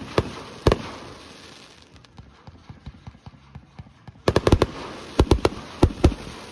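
Aerial fireworks shells bursting: a few sharp bangs at the start, a lull of faint crackling, then a quick run of loud bangs from about four seconds in, each echoing briefly.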